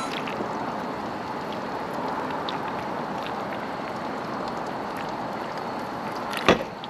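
Steady sizzling of food frying in a pan, an even hiss with faint crackles, with one sharp click near the end.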